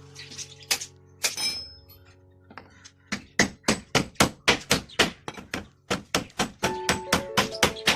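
Hammer blows: a few scattered strikes, then a fast, even run of about five blows a second starting about three seconds in. Faint held musical notes sound underneath.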